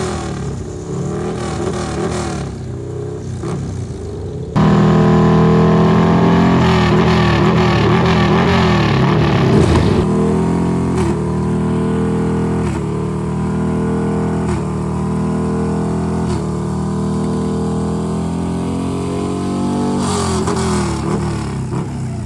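Racing motorcycle engines on the circuit, revving hard with pitch climbing and dropping back in repeated steps as they shift up through the gears. The sound jumps suddenly louder about four and a half seconds in.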